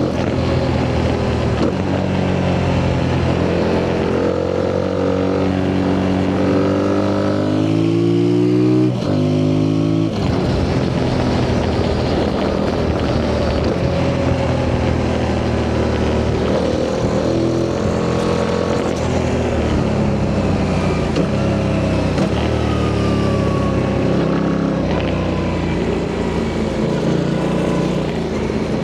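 Yamaha MT-07's parallel-twin engine on its stock exhaust, heard from the rider's seat, pulling hard as the bike is ridden. The engine pitch climbs and drops repeatedly through the gears, with a sharp climb and sudden drop about nine to ten seconds in.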